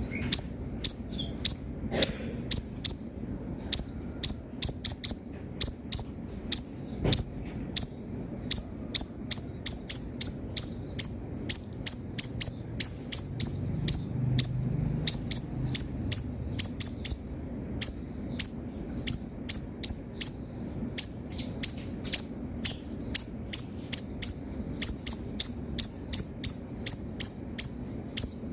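Kolibri ninja sunbird chirping: a long run of short, sharp, high chips, about two to three a second, over a faint low steady hum.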